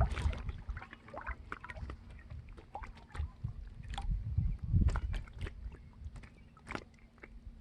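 Water sloshing and gurgling against a small boat, with scattered light knocks and clicks and a faint steady hum underneath.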